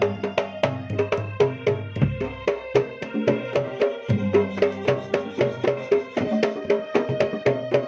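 Javanese percussion music played loud through a sound system: fast, regular drum strikes over a deep jidor bass drum, with a steady pitched melody line ringing over the top.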